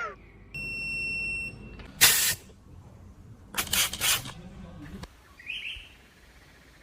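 A steady high electronic beep lasting about a second, then short bursts of hissing spray, one about two seconds in and a double burst about four seconds in, and a brief high chirp near the end.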